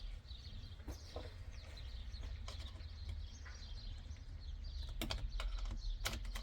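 Scattered small clicks and taps of hands working a plastic wiring clip for the paddle shifters on a steering wheel, over a low rumble, with birds chirping faintly in the background.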